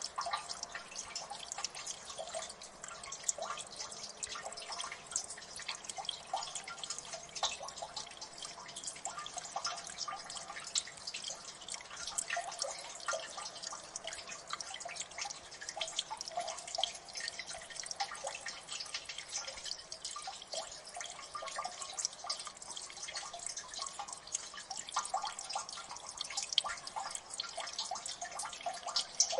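Water dripping in a gully: many small drops falling fast and at irregular intervals, each a quick plink, over a faint hiss of running water.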